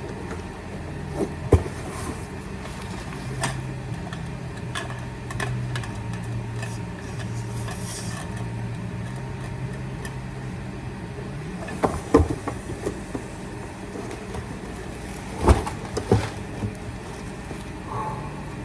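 A steady low machine hum, with several sharp knocks and clicks spread through it.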